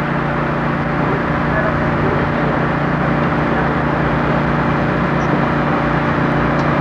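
An engine running steadily at a low, even speed, with a broad rushing noise over it.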